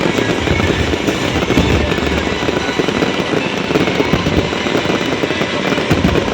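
Fireworks display: a dense, continuous crackle of many rapid small bangs.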